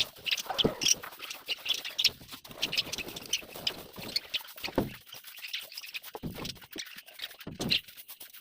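Scraping dried budgerigar droppings off a cage floor: a run of short, irregular scraping strokes with a few duller knocks.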